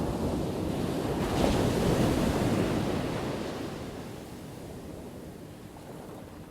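Ocean waves breaking on a shore: a wave surges in, crashes loudest about two seconds in, then washes back and fades to a low rushing hiss.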